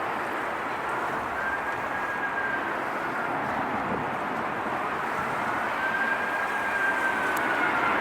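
Jet airliner engines running, a steady roar with a whine that slowly rises and falls in pitch, growing slightly louder toward the end.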